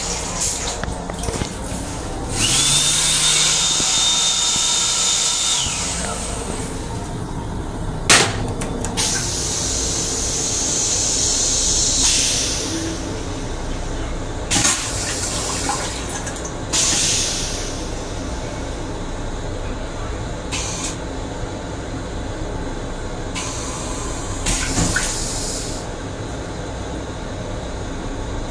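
Metro-North M7 electric railcar running, heard from inside its restroom as a steady rumble. About two seconds in, a steady high whine with a hum beneath it lasts for a few seconds, and several sharp clicks and knocks follow.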